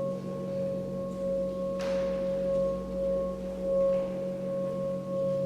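A sustained ringing drone of steady held tones, wavering in a slow pulse. A brief swish cuts across it about two seconds in.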